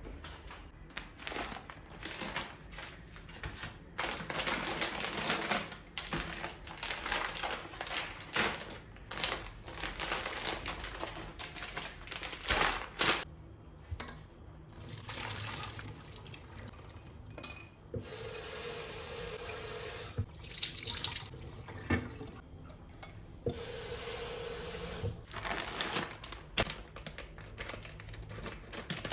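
Kitchen tap water running into a sink, on and off in uneven spells, with knocks and clinks of things being handled.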